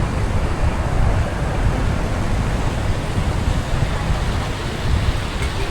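Steady road and wind noise of a car driving on rain-wet streets: a constant rushing hiss over a deep rumble.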